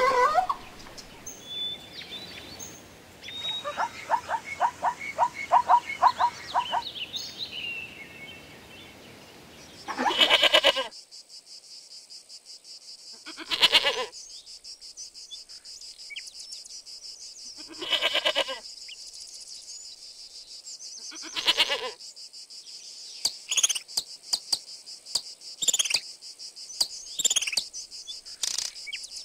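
A zebra braying in a rapid run of yelps, then a goat bleating four times, spaced a few seconds apart, over a steady high insect-like hiss. Near the end, a hummingbird's quick, sweeping chirps.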